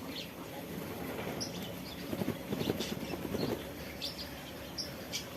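Small aviary birds chirping with short, scattered tweets, while a bathing bird splashes and flutters its wings in the water for a second or so in the middle.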